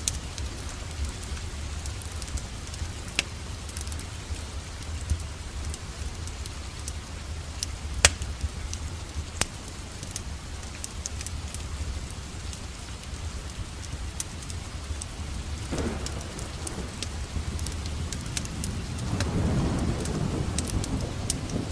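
Steady rain with scattered sharp crackles of a wood fire in a fireplace. A low rumble swells briefly about three-quarters of the way through and again near the end.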